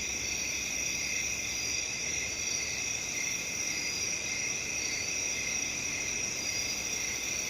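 Crickets chirping steadily in a continuous chorus, with a faint background hiss.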